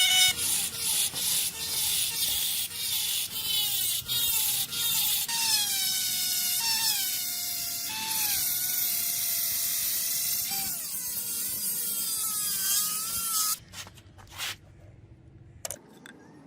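A small electric power tool works on metal, its motor pitch dipping repeatedly under load with a grinding hiss over it. It cuts off about three-quarters of the way through, followed by a few light clicks.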